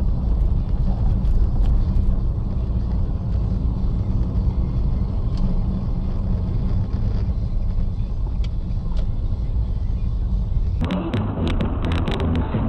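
A car driving, with a steady low rumble of engine and road noise. About eleven seconds in it switches abruptly to a different, duller recording with many quick clicks and knocks.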